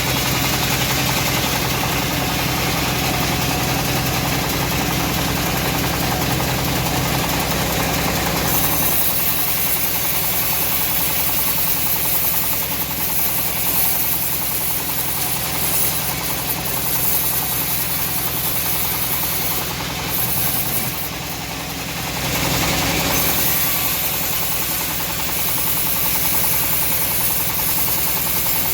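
Engine-driven home-built bandsaw mill running steadily while sawing teak. A higher hiss joins the engine about eight seconds in, and there is a short lull a little after twenty seconds.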